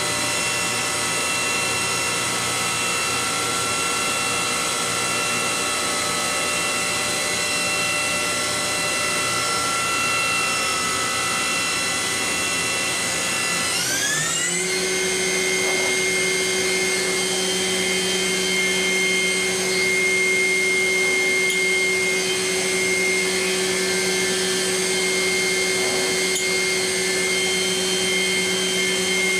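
Five-axis CNC milling machine's spindle whining steadily over a hiss of machine noise. About halfway through, the whine rises quickly in pitch as the spindle speeds up, then holds steady at the higher speed.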